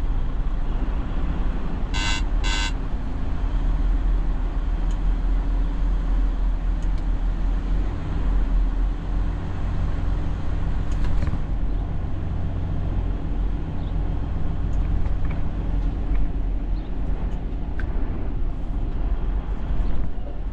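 Semi truck's diesel engine running with a steady low rumble, the trailer's reefer unit also running. Two short high beeps sound about two seconds in.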